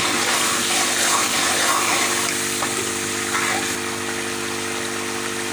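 Onion-tomato masala sizzling and bubbling in ghee in an aluminium pan as a steel ladle stirs it, cooked down to the stage where the ghee starts to separate. A steady low hum runs underneath.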